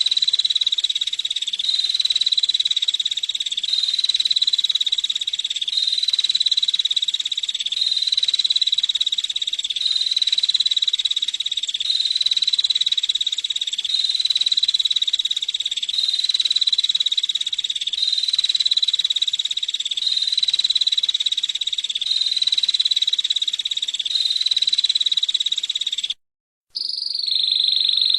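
Female prenjak (prinia) giving a rapid, high, buzzy monotone trill, repeated in even phrases about every two seconds. It breaks off briefly near the end and resumes with a slightly different call.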